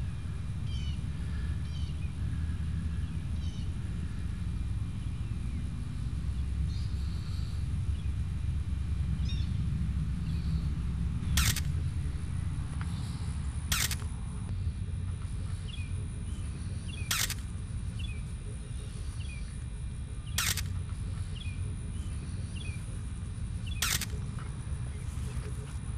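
Outdoor ambience: a steady low rumble with faint short chirps, and five sharp clicks a few seconds apart from about midway on.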